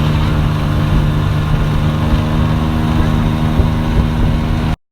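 Motorboat engine running at a steady speed, an even drone. The sound drops out for a split second near the end.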